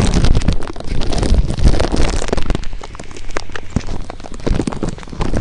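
Rain striking close to the microphone: dense crackling clicks of drops over a loud low rumble, easing a little after about halfway.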